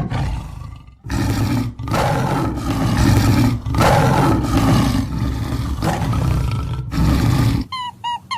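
A large animal roaring in about five loud, harsh bouts with short breaks between them. The roaring cuts off near the end, and quick repeated bird chirps begin.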